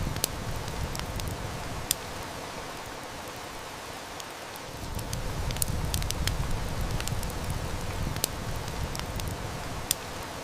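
Heavy rain falling in a steady hiss, with a wood fire crackling and snapping in sharp, scattered pops. A low rumble under the rain eases off about three seconds in and comes back about five seconds in.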